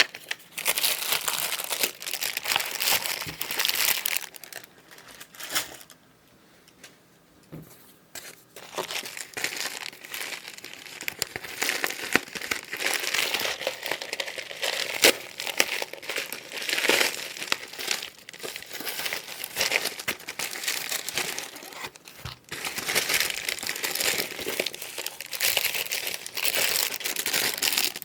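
Packaging of paint-by-numbers kits crinkling and rustling as it is handled and opened, in long stretches broken by a couple of short pauses, with some tearing.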